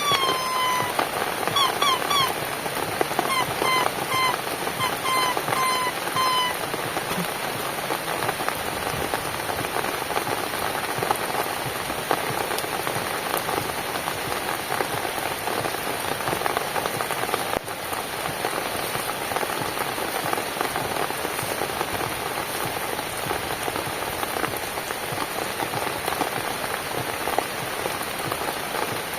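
Steady rain falling on a surface, an even dense hiss throughout. A few short pitched notes sound over it during the first six seconds.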